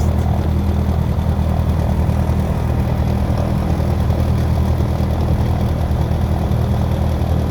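Small plane's engine running with a steady, unchanging drone.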